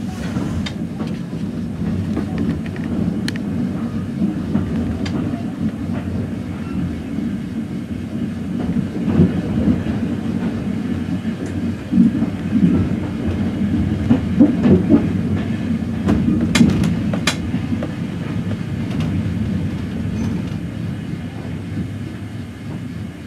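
Railway carriage running along the track, heard from inside the carriage: a steady low rumble that swells a little at times, with a few sharp clicks.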